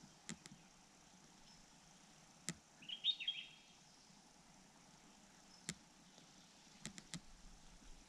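A bird gives a short burst of high chirps about three seconds in, the loudest sound here, over a faint outdoor background. Sharp clicks come singly and then in a quick group of three near the end.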